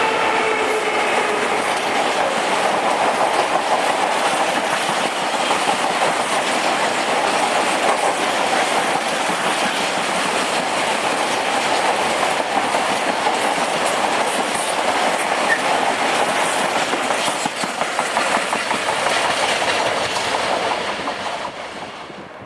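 Train passing through a station: a loud, steady rush of wheel-on-rail noise with clatter over the rail joints, fading away over the last two seconds or so.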